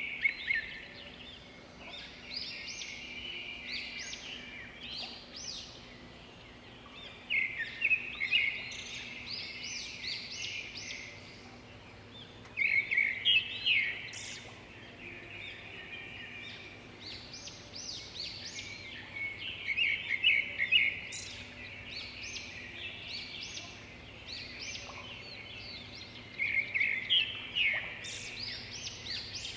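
Small birds chirping and chattering, with loud bursts of rapid calls about every six or seven seconds over quieter continuous twittering.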